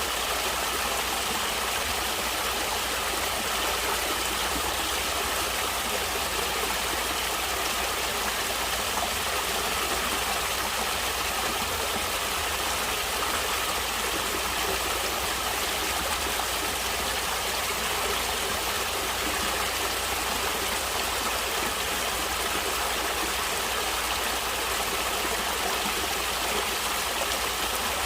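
Natural running water flowing steadily, an even rushing noise that does not change.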